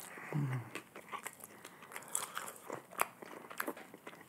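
Close-miked chewing of a mouthful of food, open-mouthed, with many sharp little wet clicks and smacks. A brief low vocal sound comes about half a second in.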